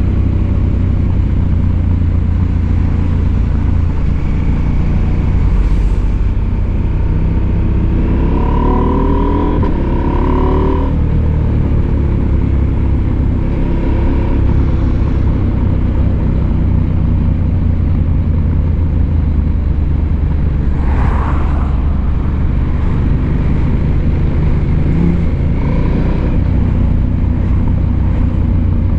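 Husqvarna Norden 901's parallel-twin engine running steadily under way. The revs climb about eight seconds in and drop sharply a few seconds later, with a shorter climb near the end.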